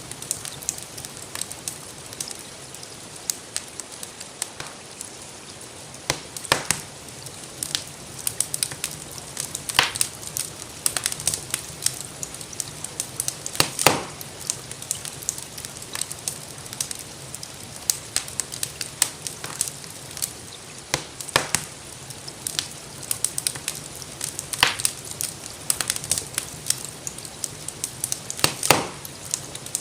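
Wood fire crackling in a fireplace, with irregular small clicks and a louder sharp pop every few seconds, over a steady hiss of gentle rain.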